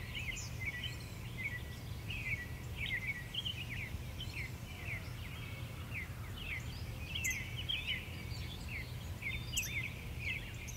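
Many small birds chirping: a continuous chatter of short, quick calls, several a second. A low steady rumble runs underneath.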